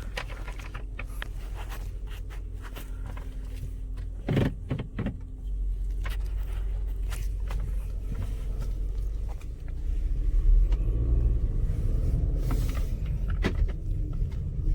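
Low rumble inside the cabin of a 2016 Audi Q3, with a few clicks and knocks about four seconds in. The rumble grows louder about five and a half seconds in and again about ten seconds in.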